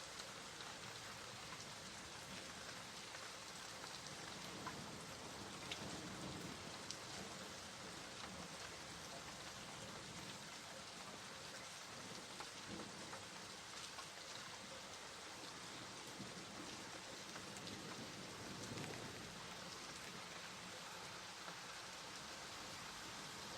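Steady rain falling, with individual drops ticking on a surface and a soft low rumble now and then.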